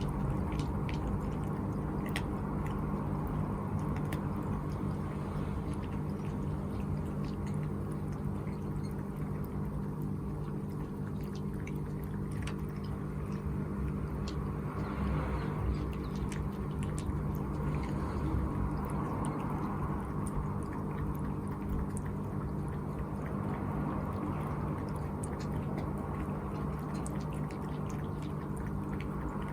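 Cat at a water bowl, lapping and splashing the water, with small wet clicks and drips over a steady low hum.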